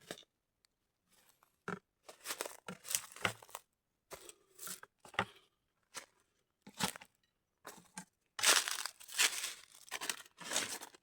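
A dozen or so short tearing and crunching noises at irregular intervals, the longest and loudest in the last few seconds.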